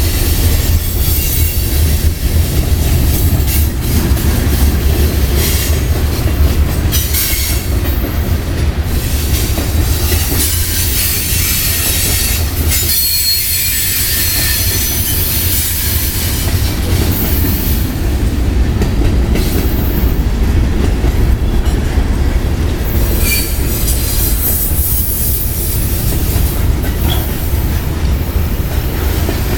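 Long freight train rolling past, its cars making a steady heavy rumble and clatter over the rails, with high wheel squeals coming and going.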